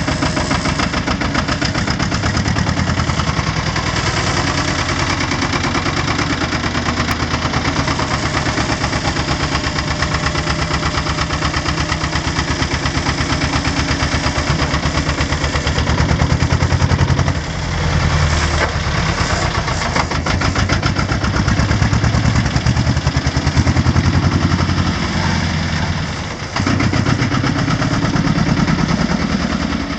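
Porsche AP18 tractor's diesel engine running with an even, fast beat, briefly dipping in loudness about halfway through and again near the end.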